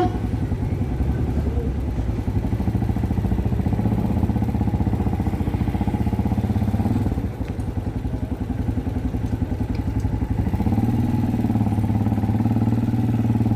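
Motorcycle engine running with a rapid, even pulsing. It eases off about seven seconds in, then picks up again with a rise in pitch a few seconds later.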